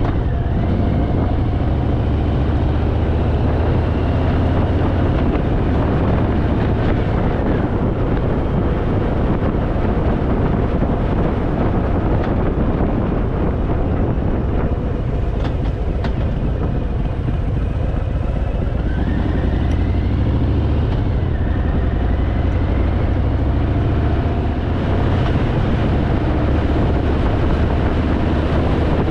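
Harley-Davidson motorcycle's V-twin engine running steadily at road speed. It eases off for a few seconds about halfway, then pulls again.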